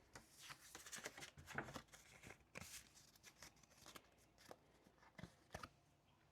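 Faint rustling and a string of small clicks and taps from things being handled at a desk, busiest in the first three seconds, then a few separate taps.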